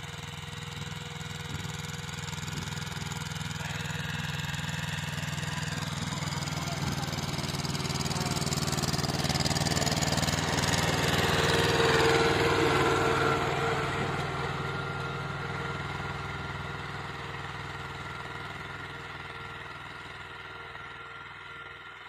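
Tractor diesel engine running steadily, growing louder to a peak about halfway through and then fading away as the tractor passes by.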